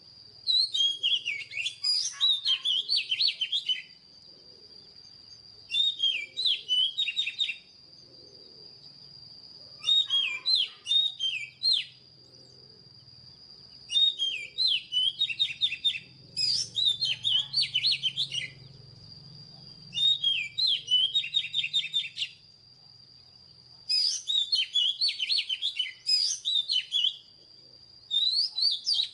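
Oriental magpie-robin singing: varied, rapid whistled and warbled phrases of a couple of seconds each, repeated after short pauses about every four seconds. A thin steady high tone runs under the song throughout.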